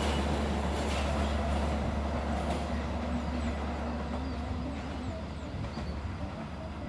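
Rumble of a passing train, fading steadily as it moves away.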